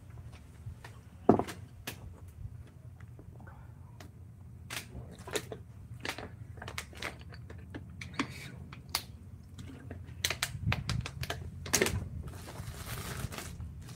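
Irregular light taps and knocks, like hand work on wood, over a low steady hum.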